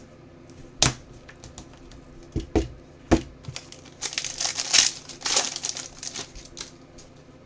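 A few sharp knocks, then a trading-card pack wrapper crinkling and tearing as it is handled and opened.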